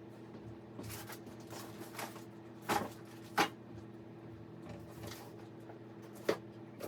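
A few sharp knocks and clatters, the loudest two close together about three seconds in and another near the end, over a steady low electrical hum.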